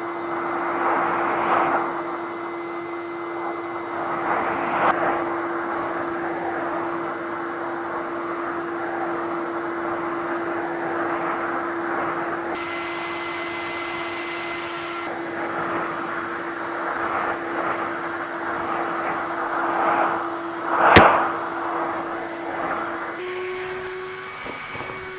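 VAX V-020 multifunction vacuum cleaner running: a steady motor whine under the rush of air through the nozzle and hose, swelling now and then. A sharp knock comes about 21 seconds in, and near the end the motor's pitch steps up slightly.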